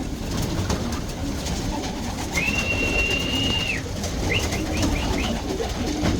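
Pigeons cooing in a loft, a low burbling throughout. About two seconds in, a high thin whistle holds steady for about a second and a half, followed by a quick run of four or five short rising chirps.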